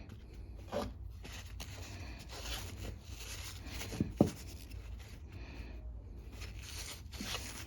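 Hands handling and rubbing small carburettor parts during cleaning: scattered scraping and rustling noises with a few light knocks, the sharpest about four seconds in.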